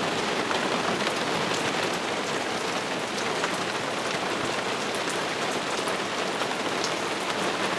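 Heavy rain in a thunderstorm downpour, a steady hiss of rain pouring down and hitting surfaces, with scattered sharp drop ticks.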